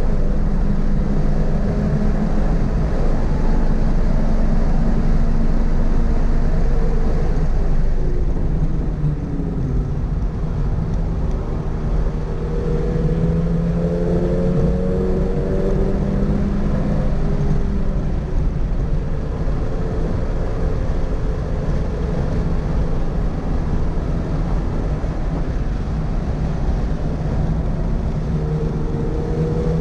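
Toyota GR86's 2.4-litre flat-four engine pulling hard on track. Its pitch falls about eight seconds in as the loudness dips, climbs again from about twelve seconds, and rises once more near the end, over a steady low rush of road and wind noise.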